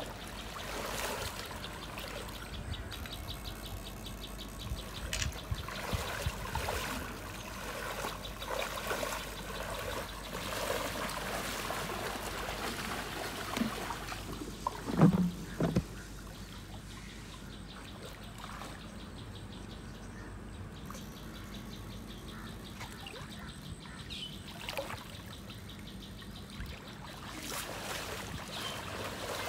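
Shallow water sloshing and trickling as someone wades and works through it, with scattered small knocks and two brief, louder low thumps about halfway through.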